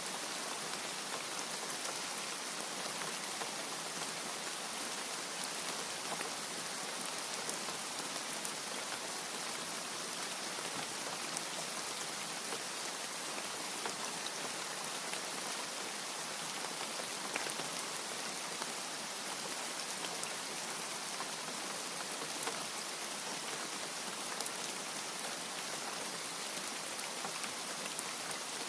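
Steady rain falling, an even hiss with scattered individual drops ticking sharply over it.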